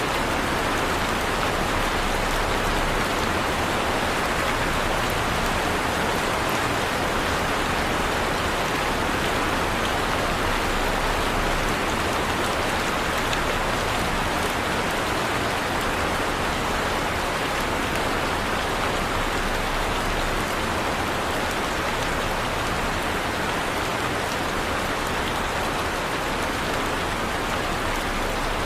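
Heavy rain falling steadily, a dense even hiss of drops on surfaces with no thunder or breaks.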